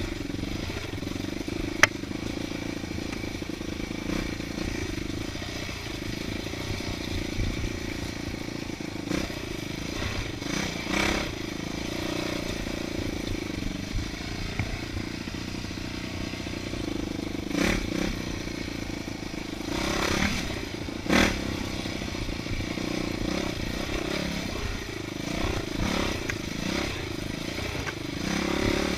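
Dirt bike engine running steadily on a trail ride, its pitch rising and falling a little with the throttle. A sharp click about two seconds in and several brief louder clattering spells, a few seconds apart, come through over it.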